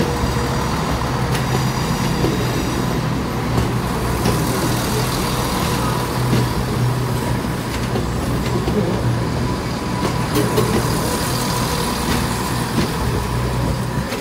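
Train at a station with a steady, low, droning hum and a few faint clicks.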